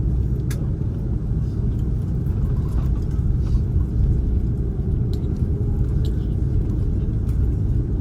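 Cabin noise of an Airbus A330-243 taxiing: a steady low rumble from its Rolls-Royce Trent 700 engines at taxi power and the rolling gear, with a few faint clicks.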